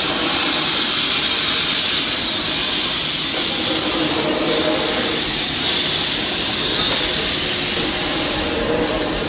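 Steam locomotive hissing steam: a loud, steady hiss whose highest part briefly drops out about four times.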